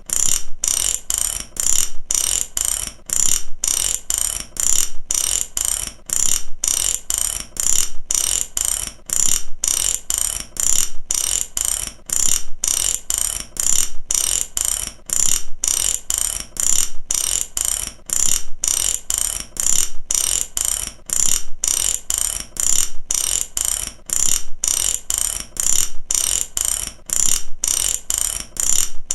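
Mechanical ratchet, its pawl clicking fast over the teeth in repeated strokes, each broken off by a short gap about once a second.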